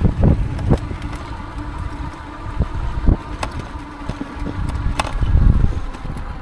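Gusting wind buffeting the microphone during an e-bike ride, an uneven low rumble that swells and fades, with a faint steady whine underneath and a few sharp clicks.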